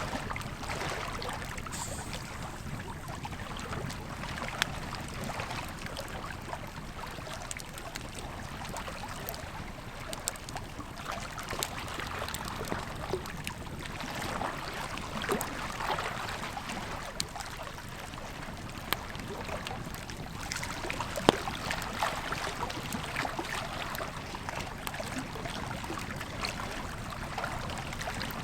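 Campfire crackling over the steady rush of a flowing river, with scattered sharp pops from the burning wood; the loudest pop comes about 21 seconds in.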